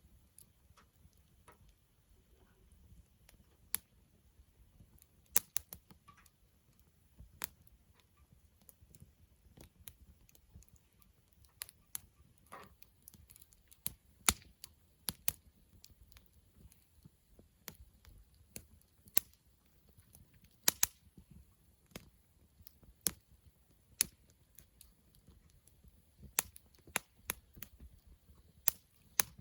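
Wood campfire crackling: irregular sharp pops and snaps, a few much louder than the rest, over a faint low rumble.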